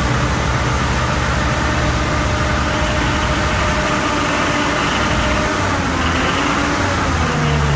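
1989 Toyota pickup's engine running steadily, just brought back to life after a hot-wired start. Its pitch rises a little near the end as it is revved slightly.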